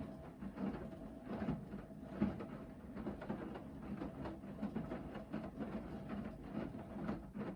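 Hoover VHD 9163 ZI front-loading washing machine in its main wash: the motor turns the drum with a steady hum while the wet laundry and water slosh and tumble in irregular swishes and soft thuds. The drum stops suddenly at the very end, a pause between tumbling turns.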